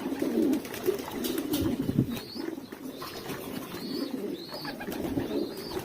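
Several domestic pigeons cooing together in a continuous low murmur, with a few short high chirps and scattered light clicks.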